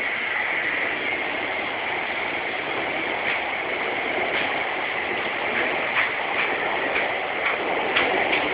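Steady rushing of water, with a Seibu line train's wheels clacking over the rail joints in quick pairs from about three seconds in.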